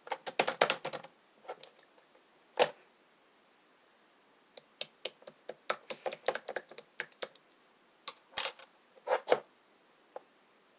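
Slime being pressed and worked by hand, making bursts of sharp little clicks and pops. A quick run of clicks comes at the start, a single pop follows, then a longer run of clicks and a few louder pops near the end.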